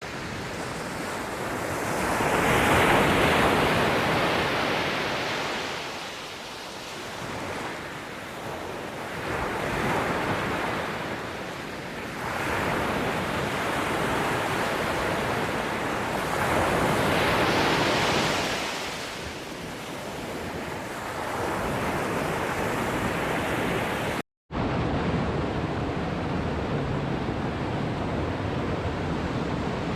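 Waterfall rushing as a dense, even roar of water that swells and fades every few seconds. A brief dropout comes about three quarters of the way through, after which the rush runs steadier with less hiss.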